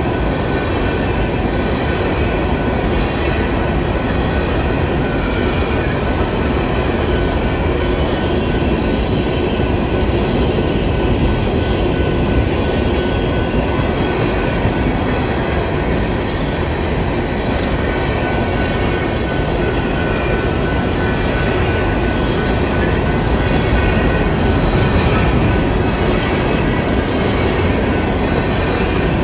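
A BNSF coal train rolling past: a steady, loud rumble of steel wheels on rail that goes on unbroken, with faint thin high tones over it.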